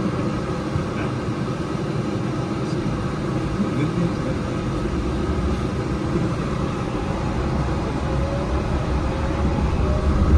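Yurikamome rubber-tyred automated guideway train running on its elevated track, heard from inside at the front. A steady running noise, with a faint rising motor whine and a slight climb in loudness near the end as it picks up speed.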